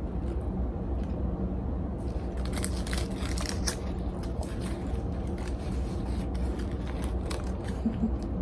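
Close-up eating sounds: biting and chewing a sushi burrito, making clusters of sharp crackly clicks about two seconds in and again near the end, over a steady low background rumble.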